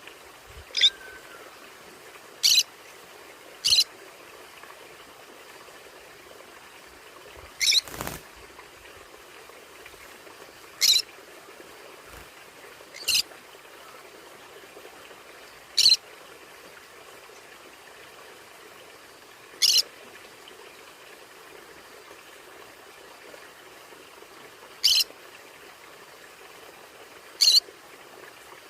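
Conure parrot giving short, sharp, high-pitched calls, about ten of them spaced a few seconds apart, over a steady background hiss. About eight seconds in, a call comes with a sharp knock.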